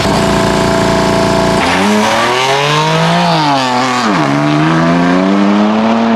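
BMW M4's twin-turbo straight-six held at steady revs on launch control for about a second and a half, then launching hard: the revs climb, drop sharply at an upshift about four seconds in, and climb again as the car pulls away.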